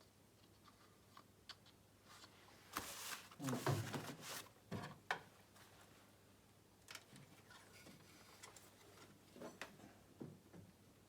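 Quiet handling noises from a funnel and bottle of chain case oil being worked at a snowmobile chain case: scattered light clicks, with a short cluster of knocks and rustling about three to five seconds in.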